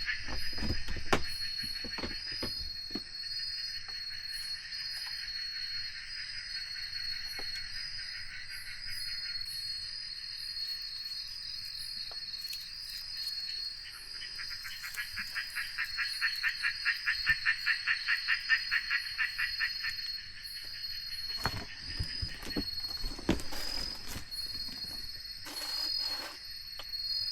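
Night chorus of insects and frogs: a steady high trill runs throughout, under a pulsing chirping call that is loudest for several seconds past the middle and then stops. Scattered clicks and knocks come through now and then.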